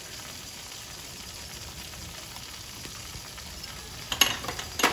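Spice paste sizzling gently in oil in a nonstick kadai, a steady low hiss. About four seconds in come a few sharp clicks as a spoonful of turmeric is tipped into the pan.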